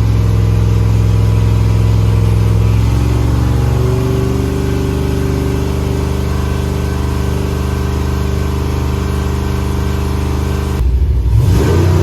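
Stroked 7.0-litre (427 ci) iron-block LS V8 running on an engine dyno. It holds a steady speed, climbs to a higher steady speed about three to four seconds in, then its note changes abruptly near the end.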